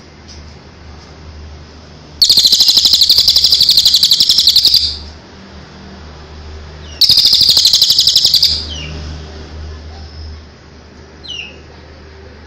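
A songbird giving two loud, rapid rattling trills, the first about two and a half seconds long and the second about one and a half, followed by a few short faint chirps near the end.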